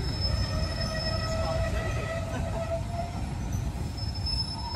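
Heritage passenger train rolling slowly along a station platform: a low, steady rumble from the running gear under a held high-pitched squeal from the wheels and brakes as it draws in.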